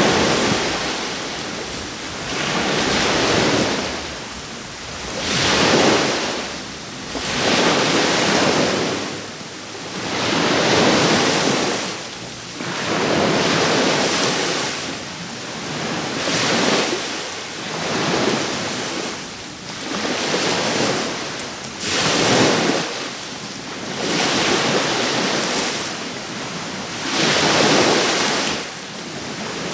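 Small waves breaking and washing on the shore, a swell of surf every two seconds or so, with some wind noise on the microphone.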